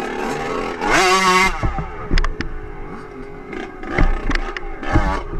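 Dirt bike engine revving hard, its pitch rising about a second in as it takes a hill climb, with several sharp thumps a few seconds later.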